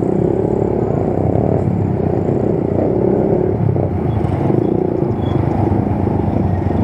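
Motorcycle running along at a steady pace, a continuous low rumble.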